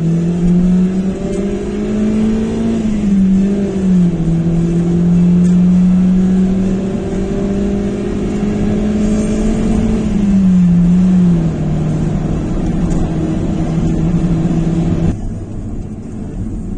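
Mazda car engine heard from inside the cabin while driving. Its note climbs, falls twice as the car shifts or eases off, then holds steady, and cuts out abruptly a little before the end.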